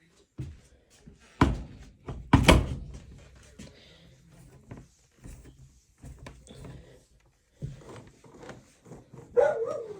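Two heavy thuds about a second apart, followed by scattered light knocks and clatter.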